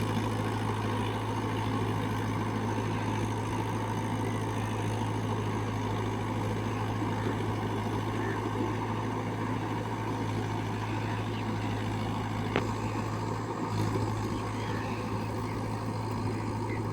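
Mahindra 475 DI XP Plus tractor's four-cylinder diesel engine running steadily at an even speed, with a single sharp click about twelve seconds in.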